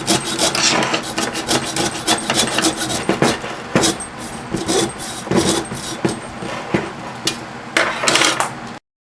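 Hacksaw cutting through the copper windings of a small microwave-oven motor held in a vise, in quick, steady back-and-forth strokes. It breaks off abruptly just before the end.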